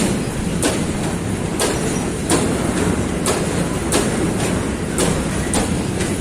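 Train wagons rolling past, their wheels clicking over rail joints in steady pairs about every half second over a continuous rumble.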